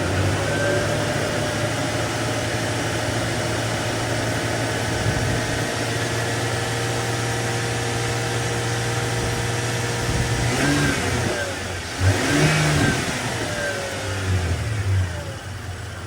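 Toyota 4Runner's 3.4 V6 idling steadily while it jump-charges a flat battery through jumper cables. The revs rise and fall briefly about ten seconds in and again near the end.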